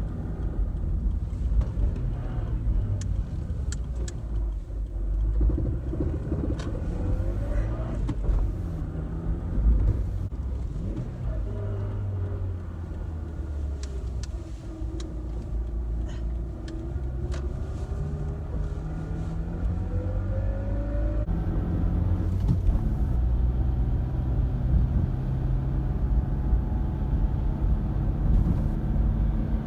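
Suzuki Swift 1.3-litre car under way, its engine rising and falling in pitch as it accelerates and eases off through the gears. A few light clicks come through now and then.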